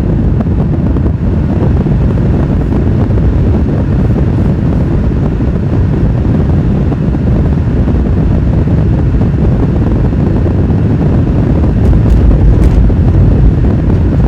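Steady low rumble of road and wind noise from a vehicle on the move, with no clear engine note; it grows a little louder near the end.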